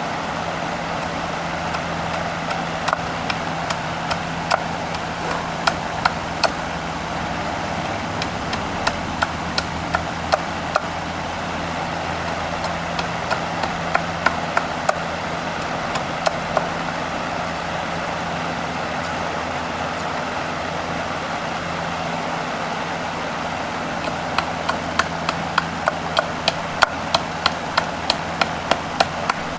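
A steady machine hum with runs of sharp taps or knocks, about one to two a second, coming thicker near the end.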